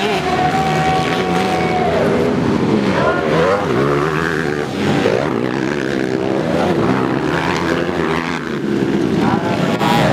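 Several motocross and trail bike engines revving and running, their pitch rising and falling as the bikes race on a dirt track.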